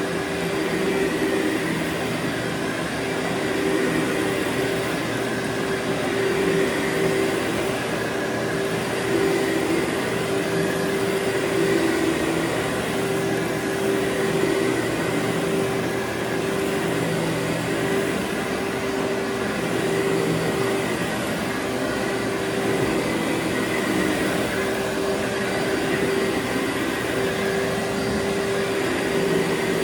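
Vacuum cleaner running steadily as it is worked over carpet, its motor giving one held tone that wavers a little in strength.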